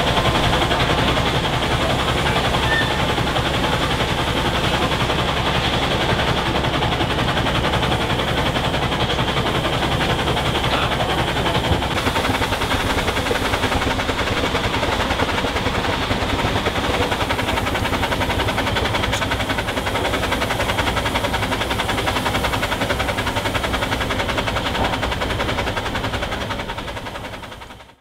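A c.1880 Corliss steam engine running steadily, with a continuous fast mechanical clatter from its running gear over a low rumble. The low rumble eases about twelve seconds in, and the sound fades out at the very end.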